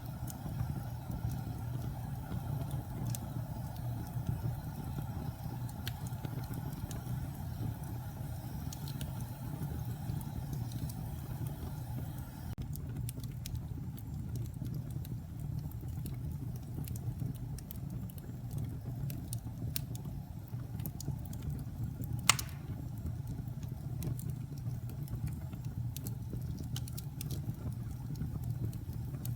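Wood fire crackling in a fireplace: a steady low rumble of flames with scattered small crackles and one loud pop about three-quarters of the way through.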